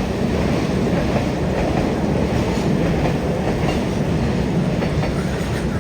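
Train running on the track: a steady, loud rumble of wheels on rail with faint clickety-clack.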